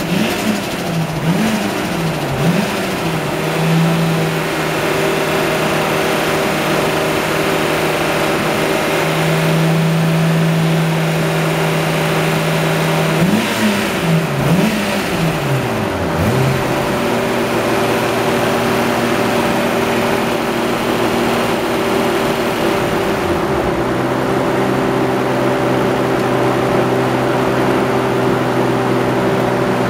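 Nissan Skyline GT-R R33's 2.7-litre straight-six with a Trust T78-29D single turbo, being revved during dyno mapping. It gives quick rev blips at the start and again about halfway through, holds steady revs in between, and settles to a steady lower speed for the second half.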